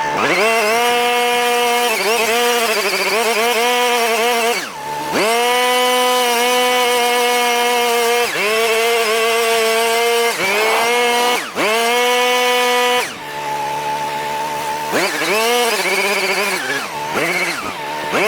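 Lawn mower engine running at speed while cutting thick wet grass. Its pitch drops sharply and recovers twice, then sags for a couple of seconds and climbs again, as the engine is loaded down by the heavy grass.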